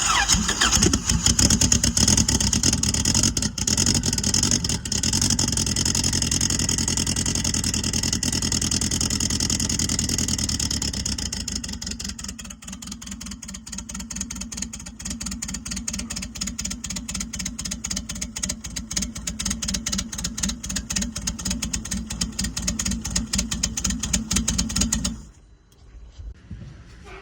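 Turbocharged Honda Civic engine running on its very first start-up, at a high, loud fast idle that settles to a lower, steadier idle about twelve seconds in. The sound cuts off suddenly near the end.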